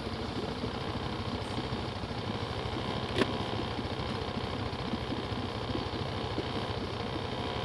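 Off-road vehicle engine idling steadily, with one sharp click about three seconds in.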